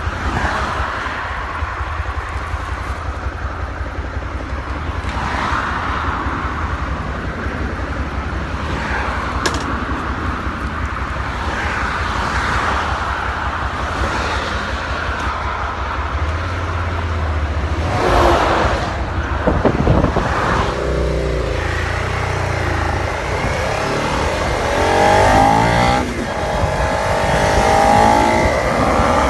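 Motorcycle engine running on the move, under heavy wind buffeting on the microphone. In the last third the engine note rises and falls as it speeds up and slows.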